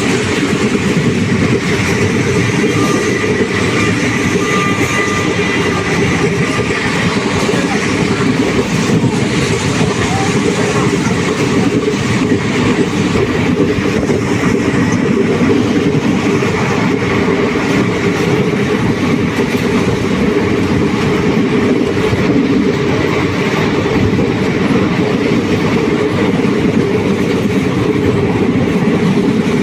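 Passenger train running along the track, the steady noise of its wheels on the rails.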